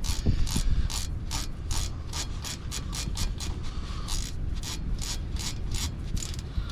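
Hand ratchet wrench clicking in a steady run of strokes, about three clicks a second and quicker for a stretch in the middle, as it works an 11 mm bolt on the rear driveshaft.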